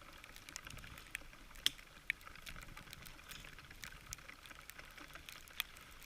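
Pine needles being plucked and snapped off a young pine's branches by hand: faint, irregular small clicks and snaps, a few sharper than the rest, over a steady faint hiss.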